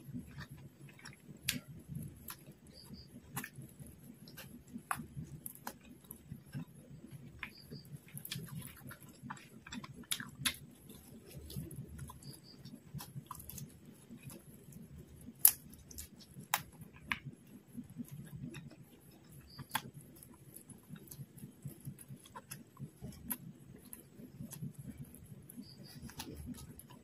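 Close-miked chewing and mouth sounds of a person eating quail biryani by hand, with many small sharp clicks and crackles over a soft, irregular chewing pulse; the loudest click comes about fifteen and a half seconds in.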